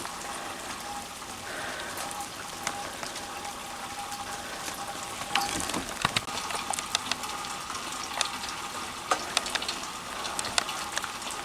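Steady rain falling, with scattered close drops landing as sharp ticks.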